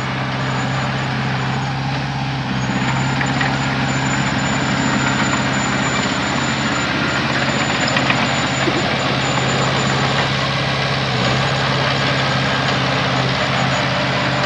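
Heavy diesel engine of earthmoving machinery running at a steady speed, a constant low hum over a broad mechanical noise.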